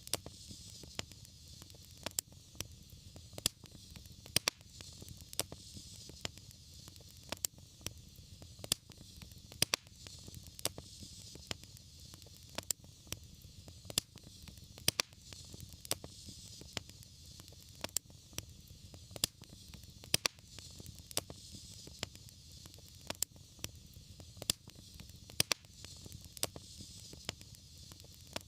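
Wood fire burning in a fireplace, crackling with frequent sharp pops over a steady hiss and a low rumble.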